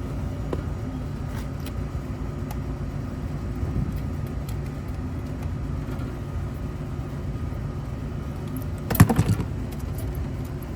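Steady low background rumble, with a short metallic clatter of small parts and tools being handled about nine seconds in, during work on the unit's control wiring.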